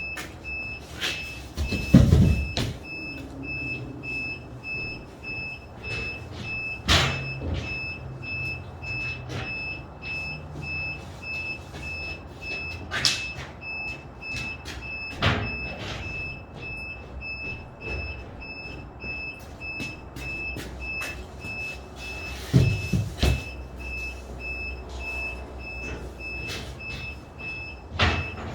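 Construction-site ambience: a warning beeper repeats steadily over a low rumble, broken by several sharp knocks and thumps, the loudest about two seconds in and a pair near the end.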